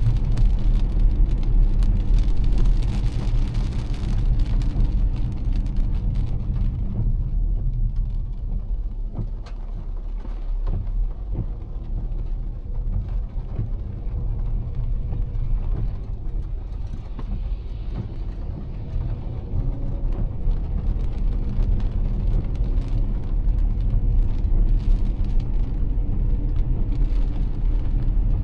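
Car driving on wet roads in heavy rain: a steady low road-and-engine rumble with the hiss of rain and tyre spray over it. The hiss is strongest for the first several seconds, then fades back.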